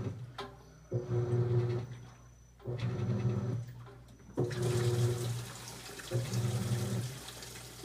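Continental Aqua Saver 16 kg top-loading washing machine in its initial agitation: the agitator motor hums in short strokes, one roughly every second and three-quarters, about four in all. About halfway through, water starts hissing into the tub and keeps running under the strokes.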